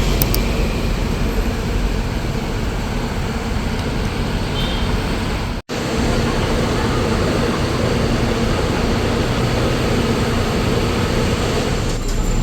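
Steady rumble and road noise of a moving vehicle. It drops out for an instant about halfway through, then carries on unchanged.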